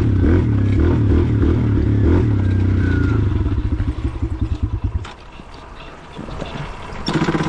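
Dirt bike engine running, turning unevenly for a couple of seconds and then cutting out about five seconds in: the bike stalls. A brief loud clatter of sound comes near the end.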